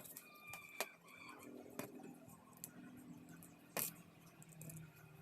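Faint, scattered clicks and taps of small plastic parts being handled and pressed together while the cover is fitted onto a homemade DC-motor gearbox. The sharpest tap comes a little under four seconds in.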